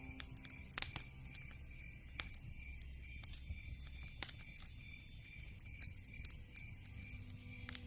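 Wood campfire crackling: irregular sharp pops scattered through, over a low rumble of the flames, with a steady high pulsing chirp behind it.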